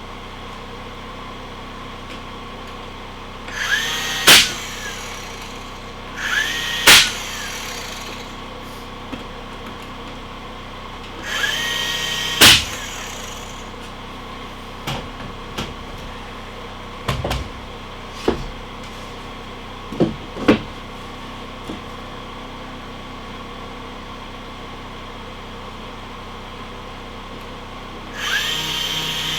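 A power tool runs in four short bursts, each about a second long. Each starts with a brief rising whine and ends in a sharp, loud crack, the sound of a fastener being driven. Smaller knocks and clicks fall between the bursts.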